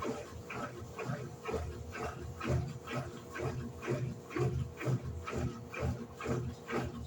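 Electrolux LED14 top-loading washing machine agitating: the agitator swishes the wash back and forth in a steady rhythm of about two strokes a second, with water sloshing and a groan on each stroke.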